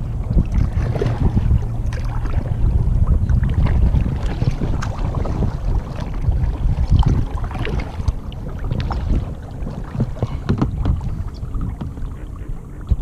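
A kayak being paddled: water splashing and dripping from the paddle strokes, with scattered short splashes and knocks. Wind rumbles on the microphone throughout.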